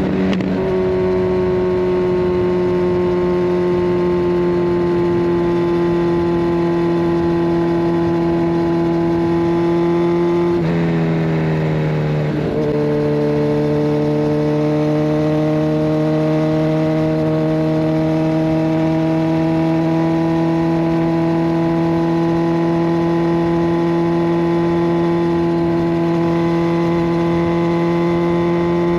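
Kawasaki Ninja 1000SX's inline-four engine running through a de-catted Scorpion Red Power exhaust under way. Its note drops at the start and again about eleven seconds in with gear changes, then climbs slowly as the bike gathers speed.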